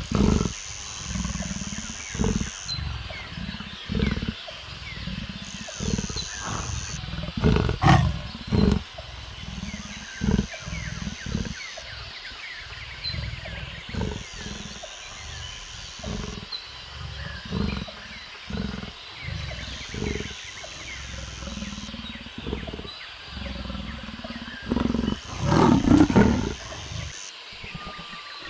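A wild animal calling in a long series of short, deep calls, loudest about a quarter of the way in and again near the end.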